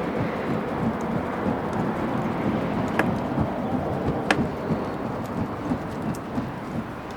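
Wood bonfire burning with a dense low rumble and steady crackling, with two sharp pops about three and four seconds in.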